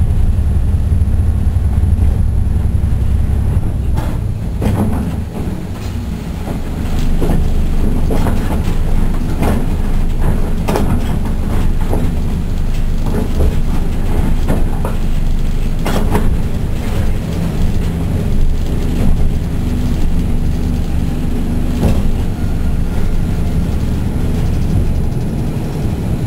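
Kishu Railway diesel railcar running along the line, heard from inside the car: a steady low engine drone, with sharp clacks of the wheels over rail joints at uneven intervals.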